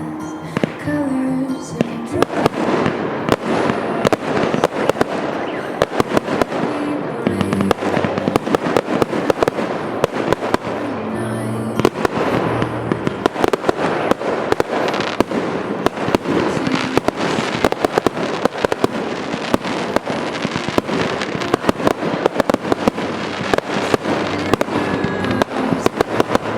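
A multi-shot fireworks battery (a 258-shot cake) firing in a rapid, continuous barrage of bangs and crackles, several shots a second, with music playing underneath.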